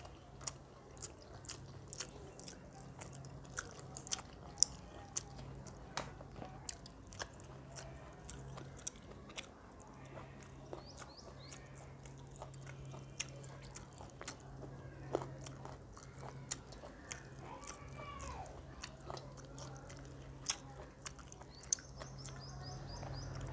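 Close-up chewing and wet mouth sounds of someone eating rice and chicken curry, with many short smacks and clicks. A steady low hum runs underneath.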